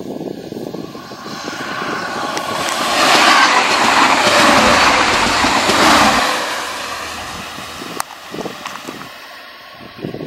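A Bayerische Oberlandbahn Integral diesel multiple unit passes close by, its engine and wheels on the rails rising as it approaches, loudest for about three seconds, then fading. A single sharp click comes about 8 seconds in.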